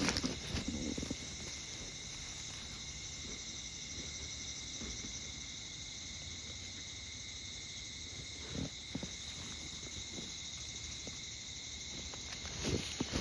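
Insects chirring steadily in a few high-pitched, unbroken tones, with a few soft footsteps at the start, once about two-thirds through, and again near the end.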